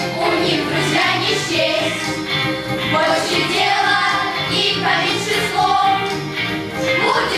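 Children singing a song together over musical accompaniment with a steady beat.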